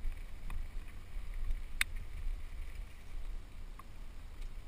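Wind buffeting the microphone during a fast mountain-bike descent on a dirt trail: a steady low rumble with a few sharp clicks and rattles, the loudest about two seconds in.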